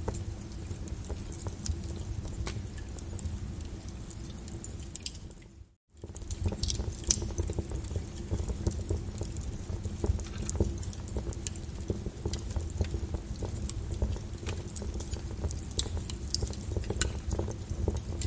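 Wood fire crackling in a fireplace: a steady low rush of burning with many sharp pops and snaps scattered throughout. About six seconds in, the sound fades out for a moment and comes straight back.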